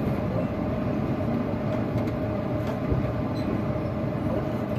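Passenger train standing at a station platform with its engines running: a steady hum with a constant mid-pitched tone running through it and a few faint clicks.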